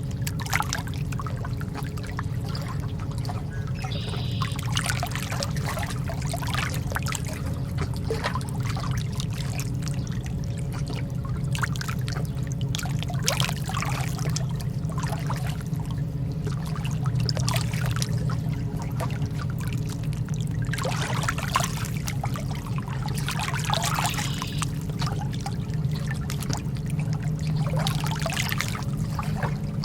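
Lake water lapping and trickling at the edge, with irregular splashy surges every few seconds over a steady low rumble.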